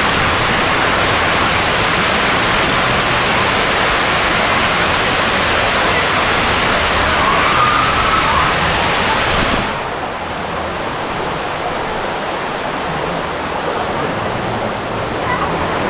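Steady rushing water noise at close range. About ten seconds in it drops and turns duller.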